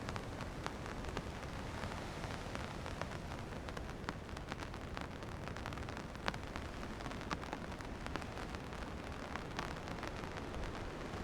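Steady rain, with many sharp drop ticks scattered through it over a low, even rumble.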